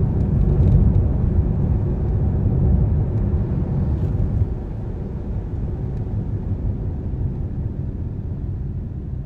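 Car driving on a wet road: a steady low rumble of road and engine noise that drops somewhat about four and a half seconds in and keeps easing off.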